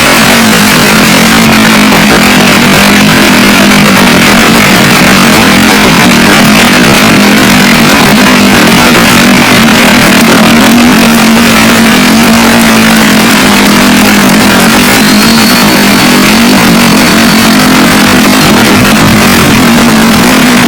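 Heavy rain falling in a loud, even downpour, with a steady low hum running beneath it.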